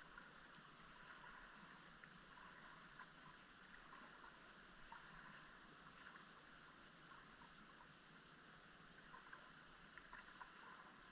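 Near silence from a camera submerged deep in a lake: a faint steady hiss with scattered faint ticks.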